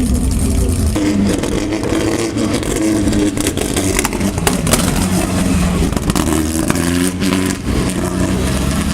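Engines of vintage midget race cars running at low speed, their pitch wavering up and down, with scattered sharp clicks.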